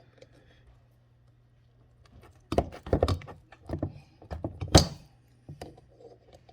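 Sharp metal clicks and knocks of tools working a valve stem seal off a Yamaha Warrior 350 cylinder head. They come in a cluster after a quiet first couple of seconds.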